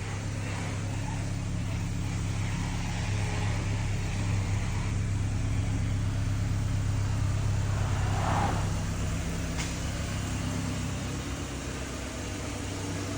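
A vehicle engine idling steadily with a low, even hum that eases off slightly near the end.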